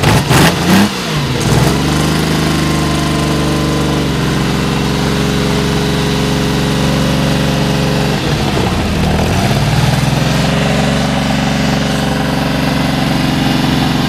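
Lamborghini Miura SV's V12 engine being blipped, with quick rising and falling revs and a few sharp cracks in the first second or so, then running at a steady speed. About eight seconds in the revs drop and climb back to the same steady note.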